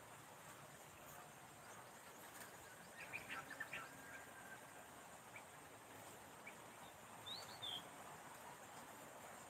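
Near silence with faint bird chirps: a cluster of short chirps about three seconds in and one higher call about seven seconds in.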